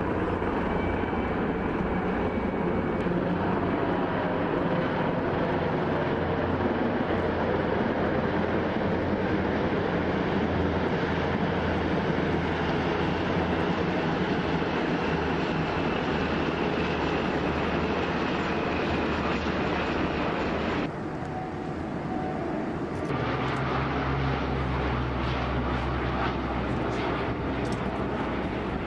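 Aircraft engines running steadily, a dense and fairly loud rush, with the sound changing abruptly about twenty-one and twenty-three seconds in.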